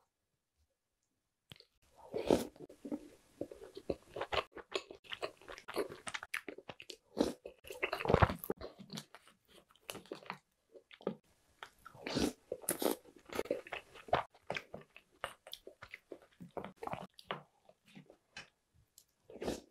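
A person eating chocolate snack cakes and cookies soaked in milk, close to the microphone: irregular chewing and crunching bites that begin after about a second and a half of silence.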